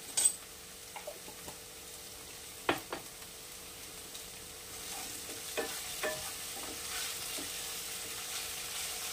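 Chopped onions and ginger-garlic paste frying in oil in a nonstick kadai: a steady sizzle that grows a little louder from about halfway. A sharp clink right at the start and scattered knocks and scrapes of utensils against the pan as the masala is stirred.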